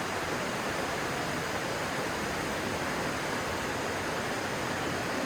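Steady rushing of a stream's flowing water, an even hiss-like noise without breaks.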